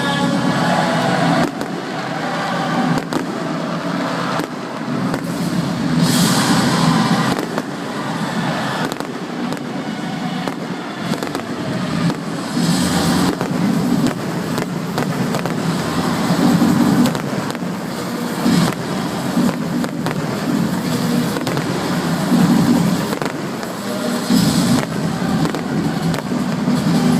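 Fireworks display going off: a continuous run of bangs and crackling, with stronger bursts several times.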